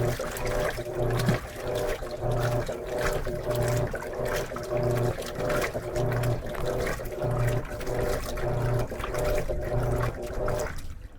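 Electrolux LM13Q top-load washing machine agitating a load of jeans in water. The motor hums in pulses about every 1.2 seconds as the agitator swings back and forth, with the water sloshing. The agitation stops suddenly near the end.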